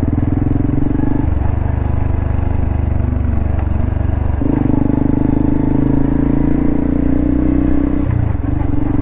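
Honda Cross Cub 110's small single-cylinder engine running under way, breathing through a Wirus Win power filter housed in the stock air-cleaner box. Its note steps up and down a few times as speed and gears change.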